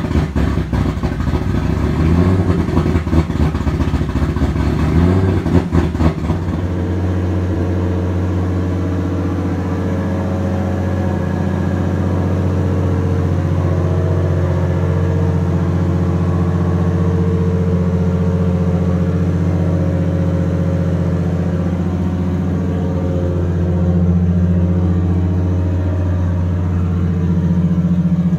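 Turbocharged Lexus IS300 2JZ-GE inline-six running. It is uneven and surging for about the first six seconds, then settles into a steady idle. The throttle plate has an eighth-inch hole drilled in it to give the engine more air and help it hold idle.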